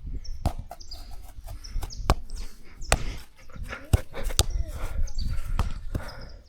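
Short, high bird calls repeating among a run of sharp knocks and clicks, over a low rumble.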